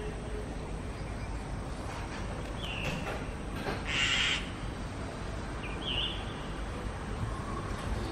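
Birds calling in the background: a short high chirp that repeats about every three seconds, and one harsh, noisy call about four seconds in, over a steady low outdoor rumble.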